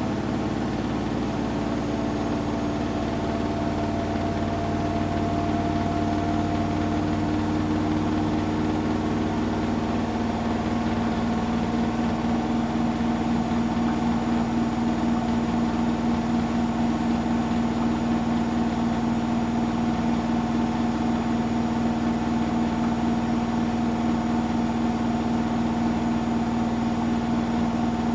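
Hotpoint washing machine running: a steady mechanical hum whose pitch creeps up during the first ten seconds or so, then holds steady.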